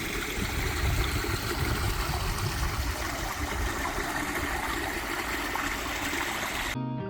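A small stream flowing: a steady rush and trickle of water. Guitar music comes back in near the end.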